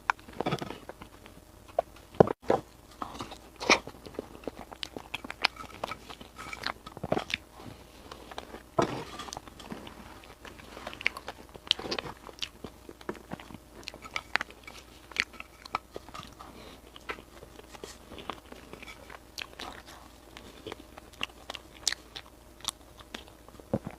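A person biting and chewing food close to the microphone, with many short crunches and mouth clicks.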